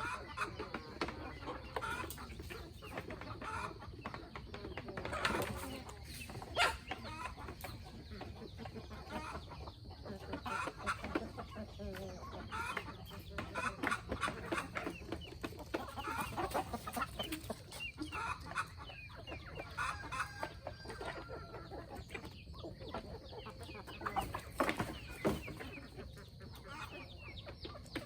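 A flock of free-range chickens clucking, many short calls overlapping, with a couple of sharp knocks.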